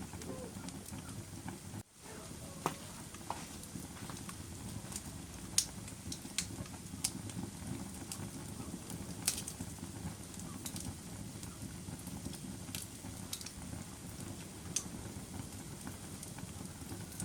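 Wood fire burning in a fireplace: a steady low rush of flame with scattered sharp crackles and pops. The sound cuts out for an instant about two seconds in.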